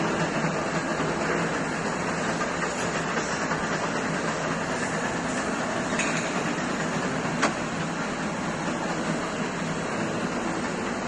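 A 165 DIP-500 heavy screw-cutting lathe running under power, giving a steady mechanical rattle, with a sharp click about seven seconds in.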